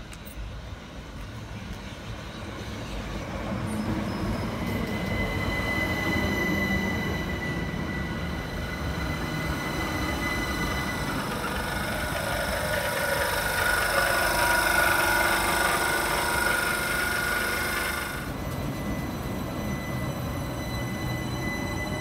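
Two coupled Class 377 Electrostar electric multiple units running in alongside the platform. The wheel-on-rail noise grows louder over the first few seconds, with steady high squealing tones above it that stop abruptly about eighteen seconds in, and a rising whine comes in near the end.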